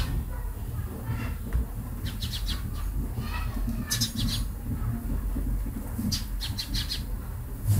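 Birds chirping in a few short bursts of quick high notes, over a steady low background rumble.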